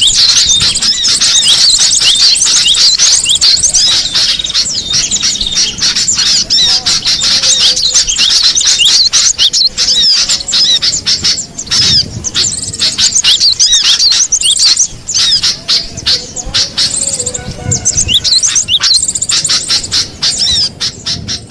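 Cinereous tits (gelatik batu) calling and singing: a dense, unbroken run of rapid, high, sweeping chirps.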